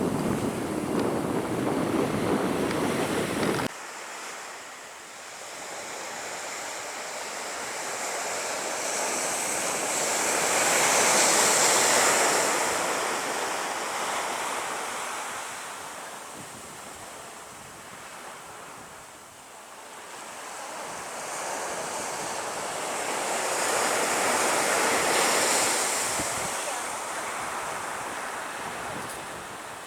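Waves breaking and washing up a beach: two slow swells of hiss, each rising and fading over roughly ten seconds. At the start, a louder rushing noise cuts off suddenly about four seconds in.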